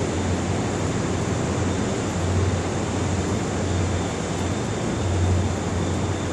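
Steady low hum and rumble of a standing diesel-hauled Mugunghwa passenger train idling, with a throbbing low drone and an even hiss over it.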